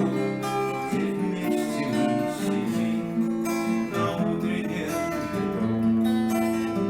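Acoustic guitar strumming chords, an instrumental passage after the last sung line of a song.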